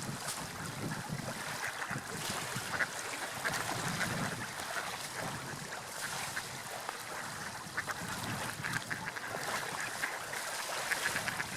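Seagulls calling over and over above the steady wash of sea waves and wind.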